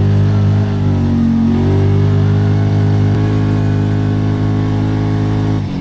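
Kawasaki Teryx 4 side-by-side's engine held at steady high revs, with a brief dip in pitch about a second in, then dropping off sharply near the end.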